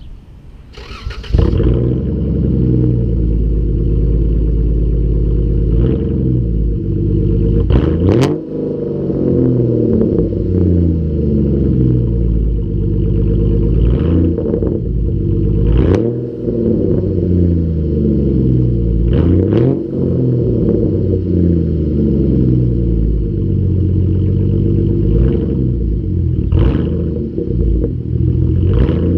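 Straight-piped 3.6-litre V6 of a 2011 Dodge Charger starting about a second in and catching loudly, then running with its revs rising and falling again and again as the throttle is blipped.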